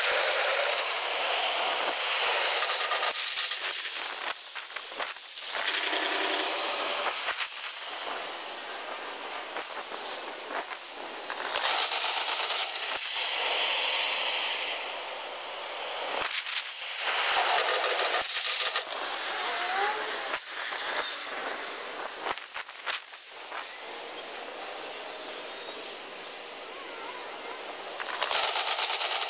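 Outdoor sound of Hankyu trains crossing a steel railway bridge, played back at ten times speed, so the rumble comes out as a high, chattering hiss full of rapid clicks. It swells and fades several times as trains pass.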